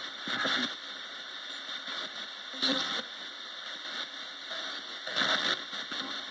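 Roberts radio used as a ghost box, giving a steady hiss of static with short bursts of broadcast sound about half a second in, near three seconds and a little after five seconds.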